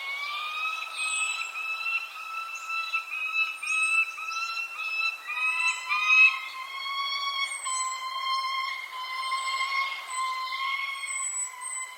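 Small birds chirping in short, high, falling notes over a louder whistling tone with overtones. The tone comes in a row of short rising pulses for about five seconds, then holds steady.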